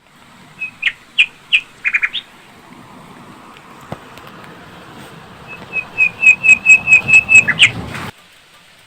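A bird chirping in quick series of sharp, repeated notes: a few chirps in the first two seconds, then a run of about ten evenly spaced chirps in the second half. Beneath them is a faint low rushing background that cuts off suddenly near the end.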